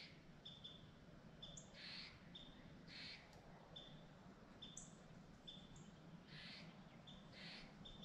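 Faint small birds calling: short high chirps repeated every second or less, mixed with a few harsher, hissier calls and brief high downward-sweeping notes.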